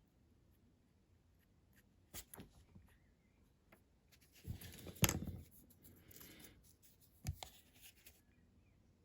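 Light handling sounds of small model-making work: a few sharp clicks of tools and parts being picked up and set down, with brief rustling of a small folded card piece being handled, the loudest click about five seconds in.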